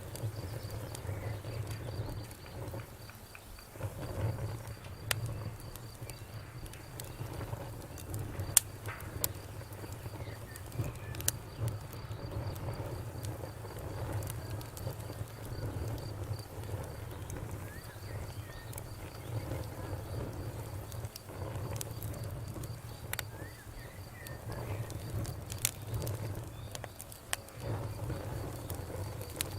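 Campfire crackling: scattered sharp pops and snaps, the loudest about eight and a half seconds in, over a low steady rumble of burning wood.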